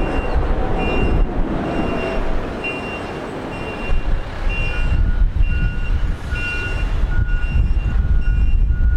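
Electronic reversing alarm beeping about one and a half times a second. A second, lower-pitched beep joins about five seconds in. Underneath runs a steady low rumble.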